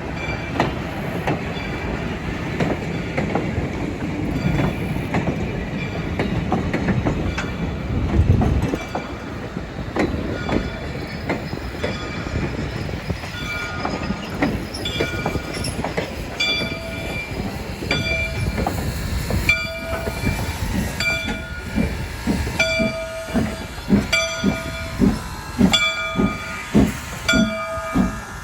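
A train passing, a rumbling rush in the first half. From about halfway, a ringing ding repeats steadily, along with regular low beats about every two-thirds of a second near the end.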